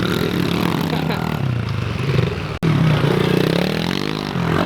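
Pit bike engine running and revving, its pitch rising and falling with the throttle. The sound breaks off for an instant about two and a half seconds in, then the engine carries on with a rising rev.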